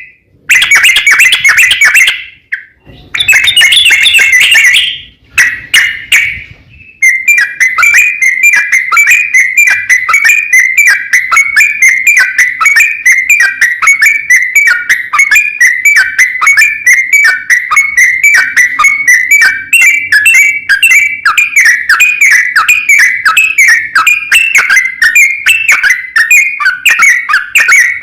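Yellow-vented bulbul song, loud and bright. Two dense bursts of notes come in the first five seconds. From about seven seconds on comes a long, unbroken run of rapid chattering notes: the 'ropel panjang' long rolling song used as a lure to call up rival bulbuls.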